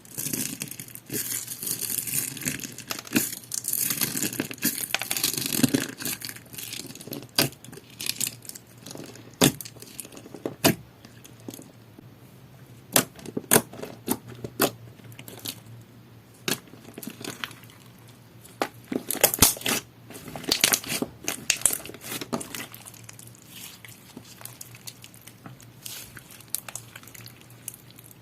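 Clear slime being squished, poked and stretched by hand, making sticky clicks, pops and crackles. It is busiest in the first six seconds and again around twenty seconds in, with scattered single pops in between.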